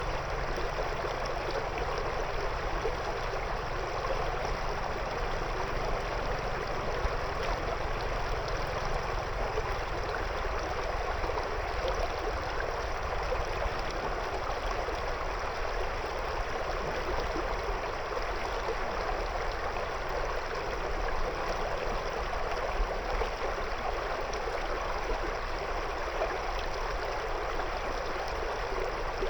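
River water flowing and burbling around stones in a steady rush.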